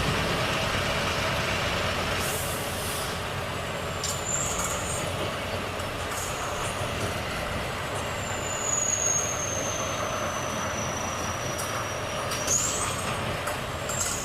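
Volvo FH truck's straight-six diesel engine running on the road, with a couple of short high hisses. A thin high whine slowly falls for about four seconds, then rises again near the end.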